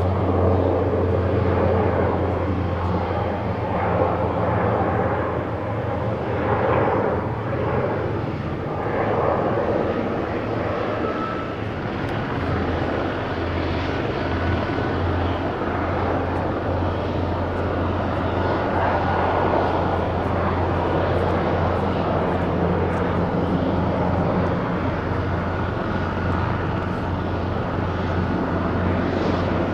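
Airbus Helicopters EC225LP Super Puma twin-turbine helicopter running: a loud, steady rotor and turbine drone with a constant low hum throughout.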